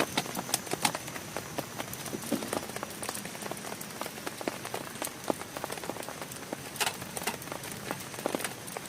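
Heavy rain falling on a tent and its tarp, with many separate drops tapping at irregular moments over a steady hiss.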